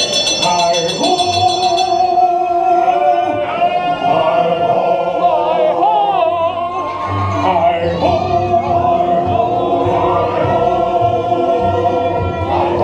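A choir singing with musical accompaniment, in long held notes that move from one pitch to the next.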